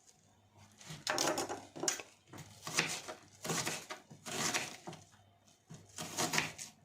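Knife cutting onion and sweet pepper on a cutting board: a series of crunchy cuts, about six, spaced irregularly.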